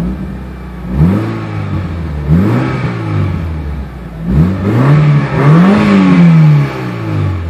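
Mitsubishi Lancer Evolution IX's turbocharged four-cylinder engine revved from idle through a full-titanium JIC Magic cat-back exhaust with an oval muffler, with a deep growl. There are four blips that rise and fall, and the last is held longest and is the loudest.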